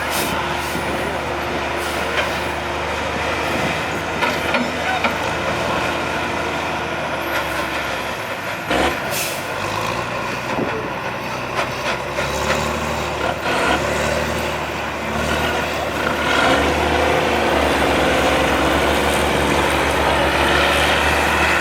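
Pulling truck's engine running at the track, with a brief air-brake hiss about nine seconds in. From about sixteen seconds the engine gets louder, with a fast, even pulsing as it revs up.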